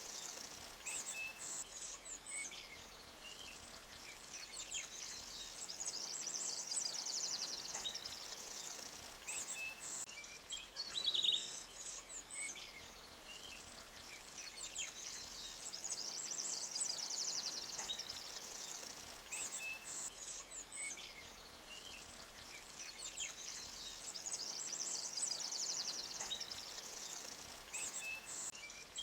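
Forest ambience of birds singing, high trills that swell and fade in waves about every nine seconds with scattered short chirps and one louder call about eleven seconds in, over a faint steady wash of a flowing stream.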